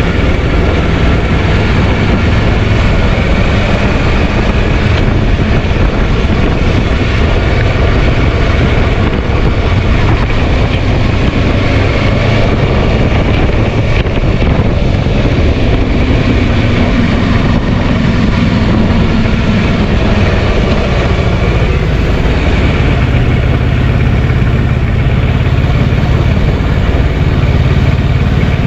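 Kawasaki Versys 650's parallel-twin engine running under way, its pitch rising and falling with the throttle, over steady wind noise on the microphone.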